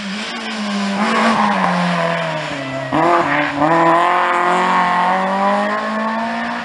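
Rally car engine: its note falls as the car slows, jumps sharply about three seconds in, then climbs again as it accelerates away under throttle.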